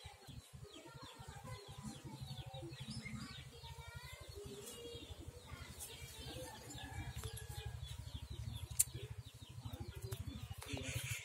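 Small birds chirping and twittering in many short, quick notes over a steady low rumble, with a single sharp click about nine seconds in.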